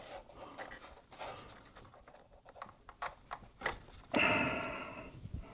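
Faint clicks and scratches of hands working the hard drive's cable connectors loose and easing the drive out of an opened iMac. About four seconds in there is a louder hiss lasting about a second.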